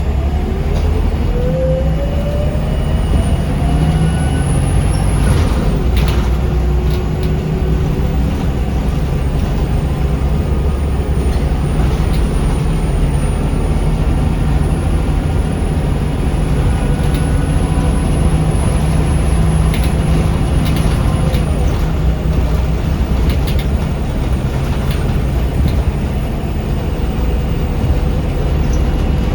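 Scania L94UB bus heard from on board while under way: the drivetrain whine rises in pitch as it accelerates over the first five seconds, then it runs steadily with low road rumble and occasional rattles.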